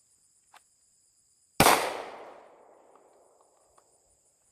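A single shot from a Sig Sauer P365 9mm pistol about one and a half seconds in, its report echoing and fading over the next two seconds. Insects chirp steadily in the background.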